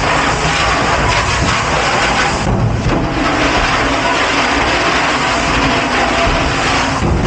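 Loud, steady machinery noise in a commercial kitchen dish pit, with the higher hiss dropping away briefly about two and a half seconds in.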